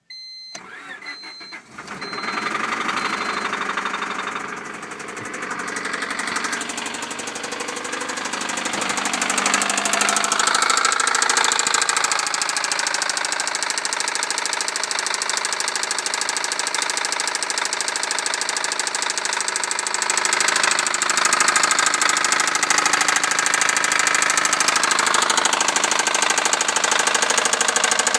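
1998 Honda Civic's four-cylinder engine cranking and catching on a cold start, then running with a severe rod knock, the sign of a badly worn connecting-rod bearing; the engine speed rises about ten seconds in and again about twenty seconds in. A dashboard warning chime beeps over the first few seconds.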